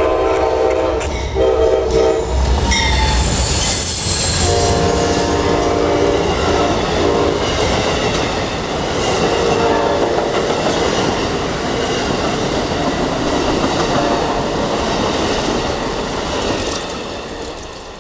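Amtrak passenger train's diesel locomotive sounding its multi-note horn for a grade crossing: a blast ending about a second in, a short one, then a long one from about four to seven seconds. Steel wheels then clatter over the rail joints as the cars pass close by, with a brief high wheel squeal, and the sound fades near the end.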